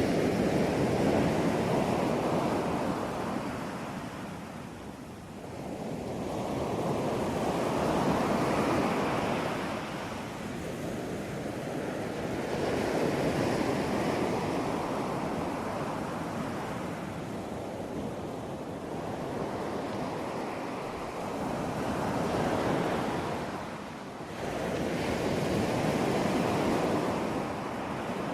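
Ocean surf: waves breaking and washing in one after another. Each one swells and fades over several seconds, about five in all.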